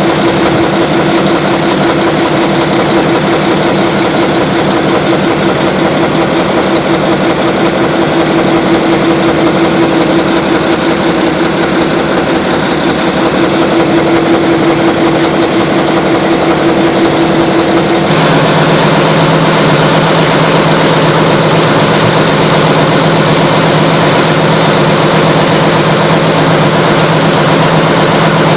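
Diesel engine idling steadily with a strong droning hum. About eighteen seconds in the sound changes abruptly to a lower-pitched drone.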